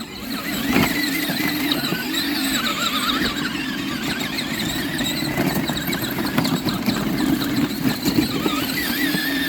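Ride-on toy truck's electric drive motors and plastic gearboxes whining under load as it drives through mud, building up in the first second, then running steadily with a wavering pitch.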